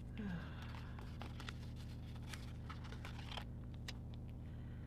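Stickers and paper being handled and pressed down onto planner pages: scattered light clicks and soft rustling over a steady low hum.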